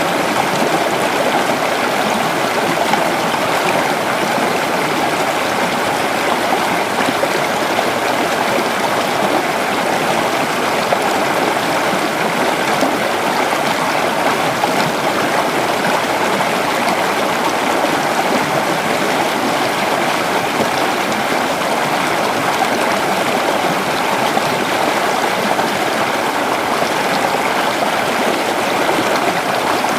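A creek's water rushing and gurgling over rocks, a steady, even sound that does not change.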